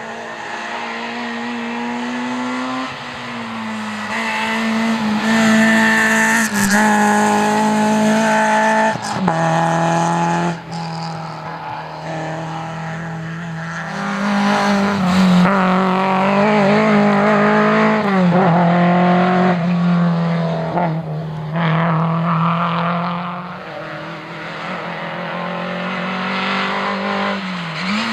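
Historic rally car engine driven hard at full throttle, its note repeatedly climbing and dropping through gear changes and lifts, with two louder stretches.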